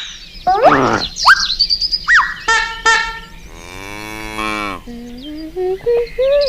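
Animal calls: a run of short chirps and whistling glides, then one long cow moo about three and a half seconds in, followed by lower sliding calls.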